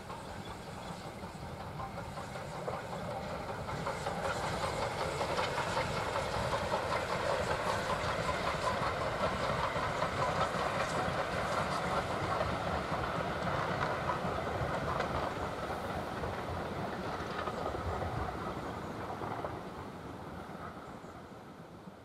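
Steam-hauled passenger train passing: the rumble and clatter of coach wheels over the rail joints grows louder, holds, then fades away near the end.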